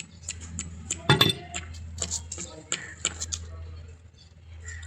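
A steady low hum of running machinery under scattered light metallic clicks and taps, with one louder knock a little over a second in.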